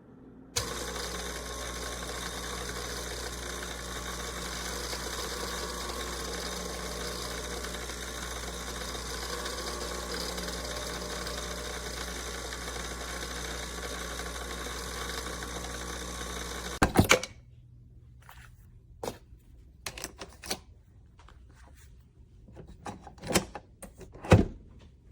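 Nespresso Inissia pod machine's vibratory pump buzzing steadily for about sixteen seconds as it brews, stopping with a quick cluster of clicks. Scattered light clicks and knocks follow.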